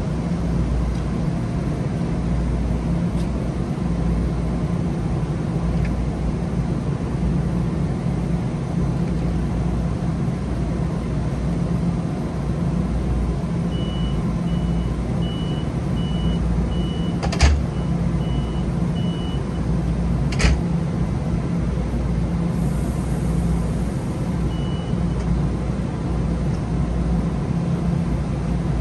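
Steady low rumble of a train, even throughout. Midway comes a run of short, evenly spaced high beeps lasting about six seconds, with two sharp clicks three seconds apart.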